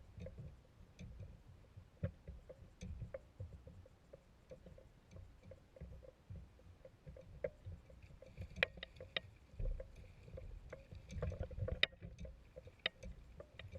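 Small water lapping and slapping against a kayak hull in irregular low knocks, with scattered light clicks.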